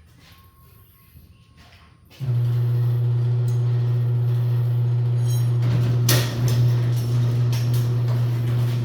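Chain-drive garage door opener switching on about two seconds in and running with a steady low hum, its drive chain just tightened to take out slack and cut noise. A couple of brief knocks or rattles come through the hum near the middle.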